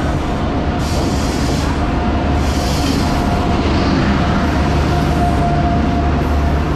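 Indian Railways WAP-7 electric locomotive and the Garib Rath Express coaches behind it rolling past along the platform, a steady low hum with a held whining tone. Two brief hissing rushes come about one and two and a half seconds in.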